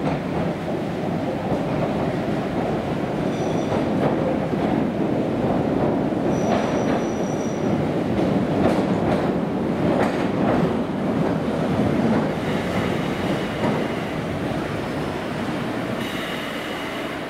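Island Line Class 483 electric train, former London Underground 1938 tube stock, pulling into the platform with a steady rumble and wheels clicking over rail joints. Brief high wheel squeals come about three seconds in and again around seven seconds in.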